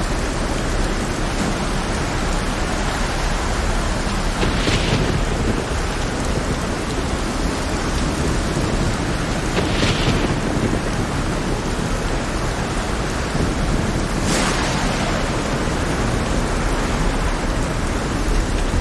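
Heavy rain falling in a dense, steady hiss over a low rumble. Three brief louder surges come about five seconds apart.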